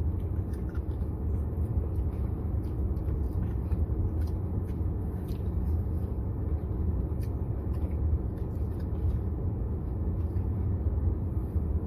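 Steady low rumble inside a car cabin, with faint small clicks and ticks scattered through it.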